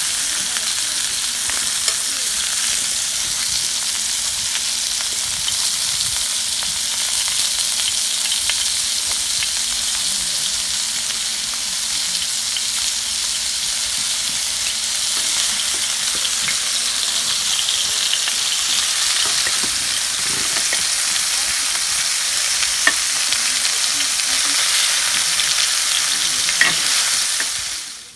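Pork neck sizzling on a grill pan over a wood fire: a steady hiss with scattered small pops and crackles, cutting off suddenly near the end.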